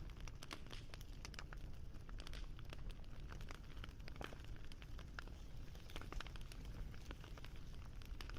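Wood fire crackling: a dense, irregular run of small pops and snaps over a low, steady rumble.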